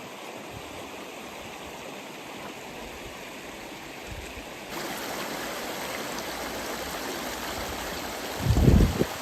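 Steady rushing of running water that gets louder about halfway through, with a loud low thump near the end.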